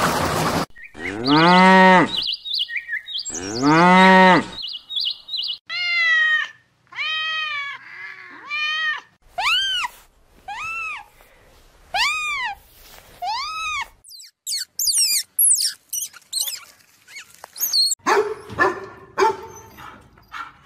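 A run of different animal calls, one after another: two long, low calls near the start, then several shorter calls that rise and fall in pitch and get higher, then quick high chirps and a last group of calls near the end.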